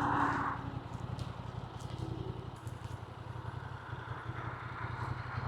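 Motorcycle engine running at low revs, a steady low pulsing throb.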